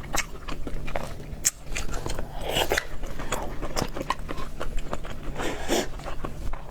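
A person biting and chewing food with crisp crunches and wet mouth clicks at an irregular pace.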